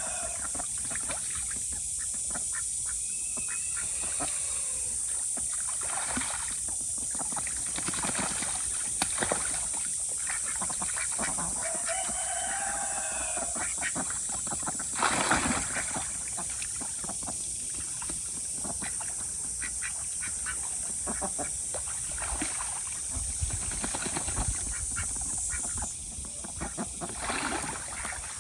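Ducks calling now and then, with a few short arched calls. A steady high hiss runs underneath, and there is one louder sudden noise about halfway through.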